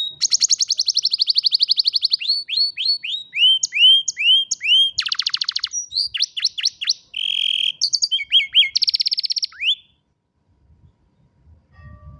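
Domestic canary singing a long, rapid song of trills and rows of quick sweeping notes, stopping about ten seconds in.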